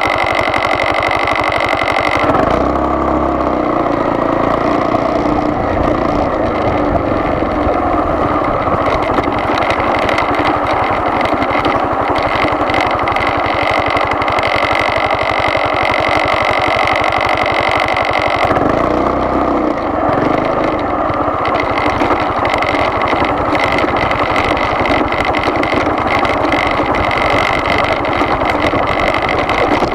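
Car engine and road noise while driving, steady throughout. A steady whine runs alongside, and the engine note changes about two seconds in and again a little past halfway.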